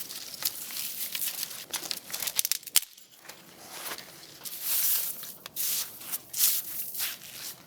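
Irregular crinkling and rustling handling noises, with a sharp click about three seconds in.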